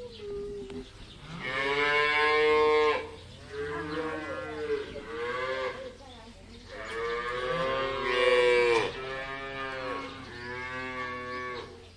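Cow mooing: about five drawn-out moos in a row, the longest and loudest ones around two seconds in and around eight seconds in.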